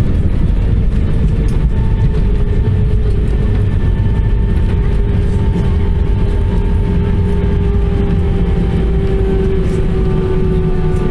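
Airbus A320-214 heard from the passenger cabin just after landing: a loud, steady low rumble with engine whine tones that slowly fall in pitch as its CFM56 engines wind down.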